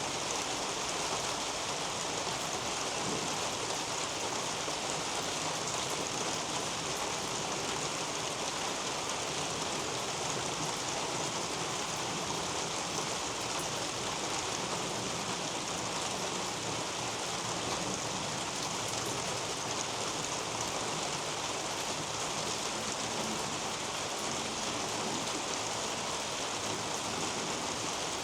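Steady rain falling on garden leaves and a roof overhead, an even hiss that does not change.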